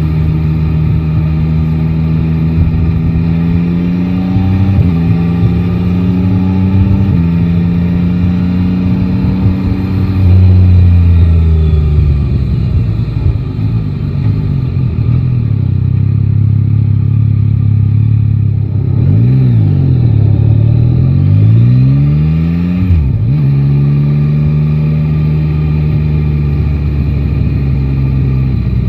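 Yamaha Tracer 9 GT's inline three-cylinder engine running under way: it pulls through two upshifts early on, drops back as the bike slows, rises and falls quickly a few times past the middle, then holds a steady pitch.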